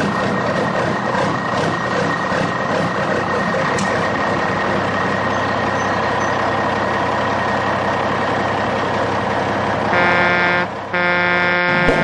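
A heavy truck engine runs steadily. Near the end come two horn blasts, the second one longer.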